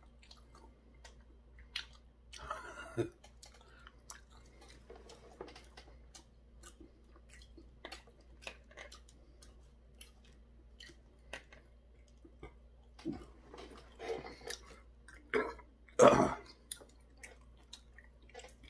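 A person chewing Korean fried food (twigim) with small wet, crunchy mouth sounds, and a louder noise a few seconds in and again near the end.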